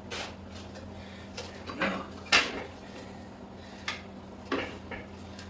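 Several short, separate metal clunks and knocks as a motorcycle rear wheel is wrestled into the swing arm and its drive belt worked onto the pulley, the loudest a little past two seconds in.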